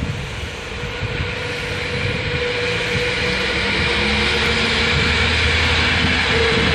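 Locomotive-hauled passenger train passing along the tracks: a steady rush of wheels and carriages on the rails that builds over the first couple of seconds and then holds. A steady mid-pitched whine runs under it.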